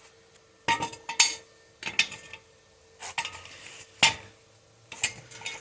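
Sharp metallic clanks and clinks, about eight, spaced irregularly, some with a brief ring, as metal tools and jack parts are handled and set down, over a faint steady hum.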